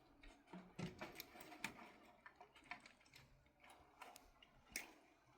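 Faint, irregular clicks and light taps over a quiet background, the sharpest near the end.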